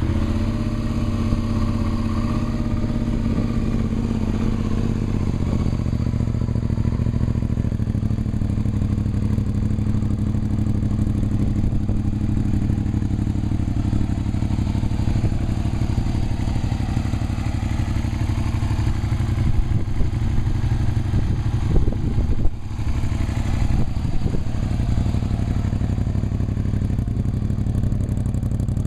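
2003 Suzuki SV650's 645 cc V-twin idling steadily through an aftermarket high-mount Holeshot exhaust just after starting. A brief knock and dip comes about 22 seconds in.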